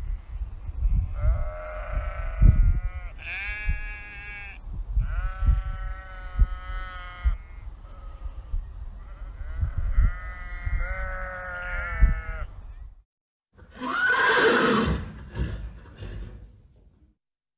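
Sheep bleating: several long, high, wavering bleats over a low rumble. After a sudden cut, about fourteen seconds in, a horse whinnies once, falling in pitch.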